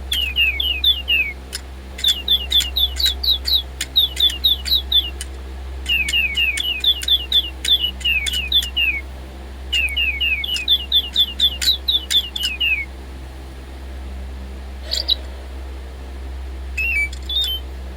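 DigiBirds toy robot birds chirping electronically: repeated runs of quick, falling tweets in bursts of a second or two with short pauses, with a few sharp clicks, on nearly flat batteries. The chirping stops about two-thirds of the way through, leaving only a couple of short chirps.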